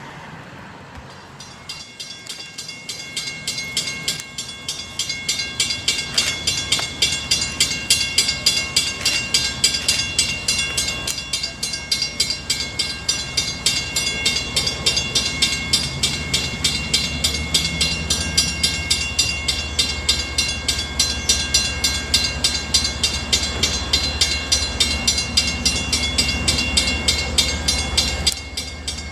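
A railroad bell rings in fast, even strokes. The low rumble of an approaching train grows louder from about halfway through.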